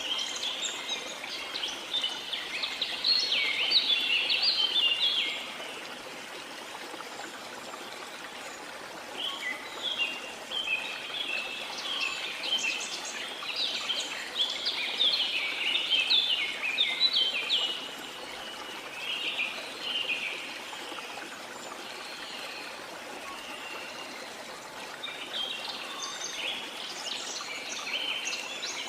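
Small songbirds chirping and twittering in several bouts, with short lulls between them, over a steady wash of water.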